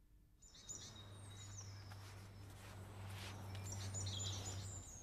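Faint outdoor ambience fading in about half a second in: short high bird chirps in two clusters over a low steady hum.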